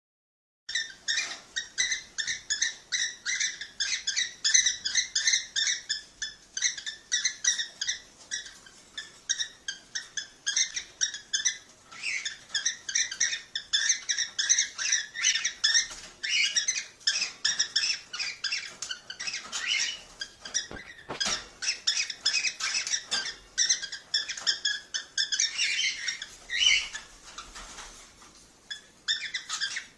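Cockatiels chirping in a rapid, continuous stream of short high-pitched calls. The chirping starts about a second in, thins out briefly near the end, then picks up again.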